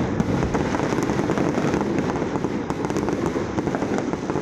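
Fireworks going off in a dense, continuous rapid crackle of many small pops.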